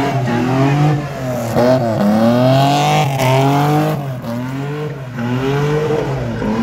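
BMW E30 sedan spinning donuts: its engine revs hard, the pitch rising and falling every second or two as the rear wheels spin, with tyre noise on the tarmac.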